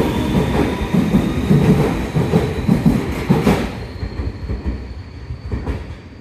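Tobu Urban Park Line electric train running past along the platform and receding: its wheels clack rhythmically over the rail joints until about three and a half seconds in, then the sound fades as the train draws away, with a thin high whine over it.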